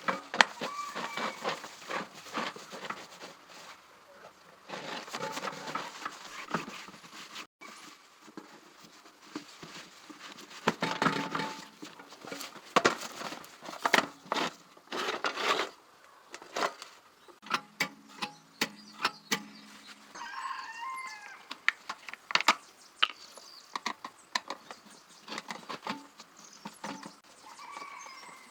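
Irregular clicks, taps and knocks of hand tools and small parts being handled as an appliance is taken apart for repair.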